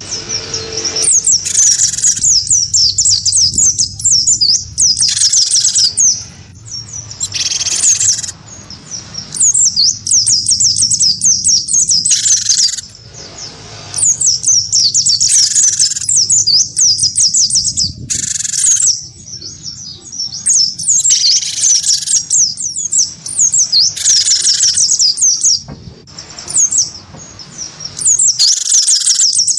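Cinereous tit (gelatik batu) and white-eye (pleci) songbirds singing against each other. Their song is rapid, high twittering in runs of one to three seconds, broken by short pauses.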